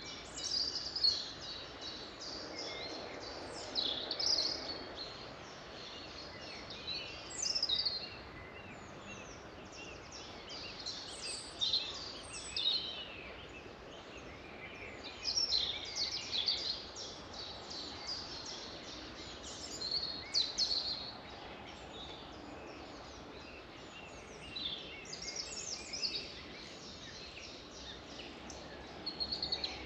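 Several songbirds singing and calling in overlapping, high, short phrases that come every second or two, over a steady background hiss.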